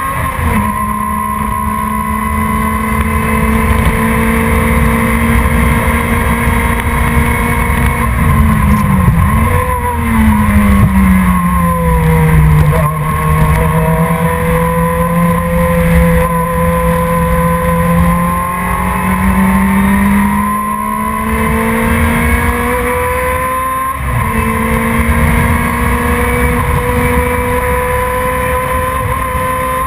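Production sports racing car's engine running hard at speed, one engine held throughout. Its pitch dips sharply about ten seconds in, as on braking and downshifting for a corner, then climbs slowly under acceleration, with abrupt steps at gear changes near the start and near the end.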